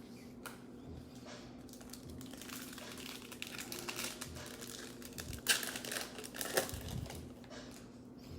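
Crinkling and rustling of trading-card packs and wrappers being handled, with a louder rustle about five and a half seconds in.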